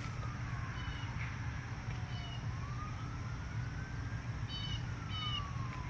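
A siren wailing slowly, its pitch sliding down, up and down again, with short high bird chirps in quick little groups over it and a steady low hum underneath.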